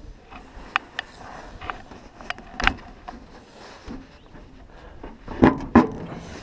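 Sharp metallic clicks and knocks as a car fender is handled and fitted into place on a 1952 Mercury body. There are a few light taps early on, a louder knock partway through, and two heavy clunks close together near the end.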